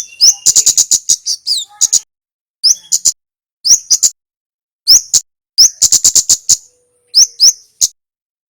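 Kemade songbird calling loudly: rapid runs of sharp, dry chip notes mixed with short upslurred whistles, given in repeated phrases with brief pauses between them.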